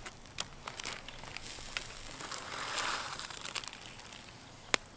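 Light crinkling and rustling with scattered small clicks, swelling briefly in the middle, and one sharp click near the end.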